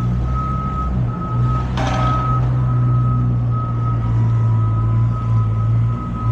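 Truck's reversing alarm beeping steadily, about one beep a second, over the low rumble of a heavy engine, with a short hiss about two seconds in.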